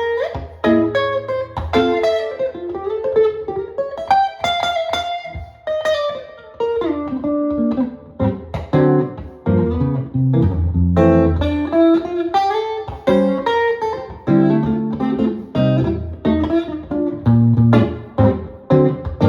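Jazz guitar playing, with quick plucked single-note runs over low bass notes and chords.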